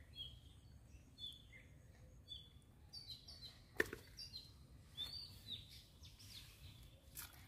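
Small birds chirping, short calls repeating about once a second, with a sharp click about four seconds in and another near the end.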